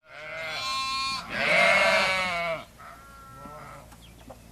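Bleating livestock: two long, wavering calls in the first two and a half seconds, the second one louder, then a few fainter calls.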